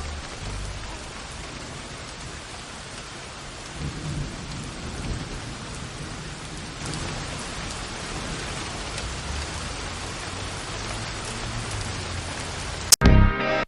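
Steady heavy rain with low rumbles of thunder. A hip-hop beat cuts in abruptly near the end.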